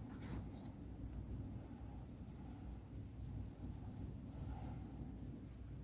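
Faint, intermittent rustling and light scratching as green grass scatter is sprinkled and worked onto glue on a model railway layout.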